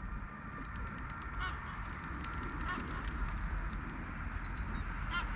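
Gulls calling: a few short, separate calls, spaced a second or more apart, over steady low background noise.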